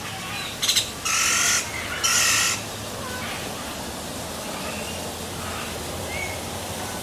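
A bird gives two loud, harsh squawks, each about half a second long and a second apart, just after a brief click.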